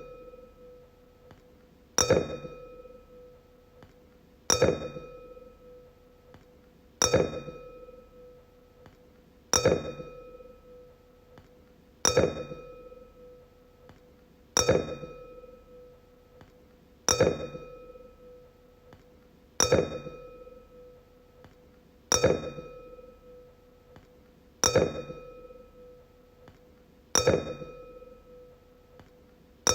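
Wine glass struck over and over, about every two and a half seconds. Each tap rings on a clear tone with higher overtones and fades away over about two seconds before the next.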